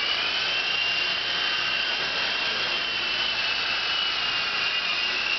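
Small RC helicopter's motor and rotor whirring in flight, a steady high whine whose pitch wavers slightly as it manoeuvres.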